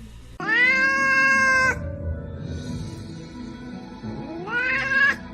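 A cat giving two long meows: the first held at a steady pitch for over a second, the second shorter and rising in pitch near the end.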